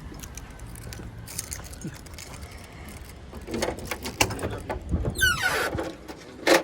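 A short, loud squeal that falls steeply in pitch, with a few knocks and clicks before it and one sharp knock near the end.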